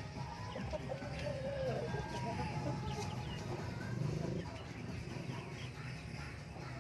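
Native chickens clucking, with many short high chirps throughout, over a steady low hum.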